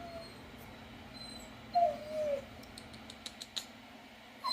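A dog whining: one wavering, falling whine about two seconds in and a short higher one at the end, with a quick run of light clicks in between.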